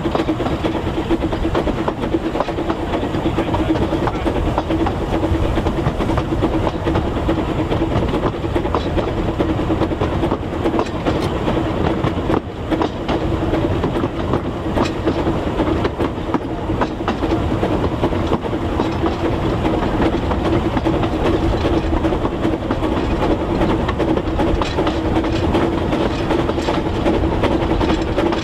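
2 ft 3 in narrow-gauge steam train of the Talyllyn Railway running steadily, with the carriages' wheels clicking over the rail joints and a constant running hum.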